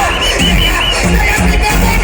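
Music played loud through a reggae sound system, with heavy bass.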